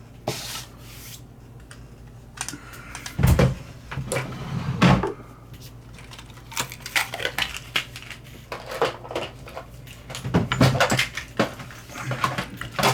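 Small lighter parts and tools handled on a desk during reassembly: scattered clicks and light knocks, with two heavier thumps about three and five seconds in.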